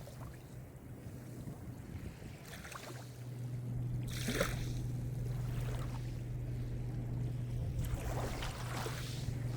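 Mediterranean surf: small waves wash in and break on the shore, the strongest about four seconds in and another near the end, over a steady low rumble.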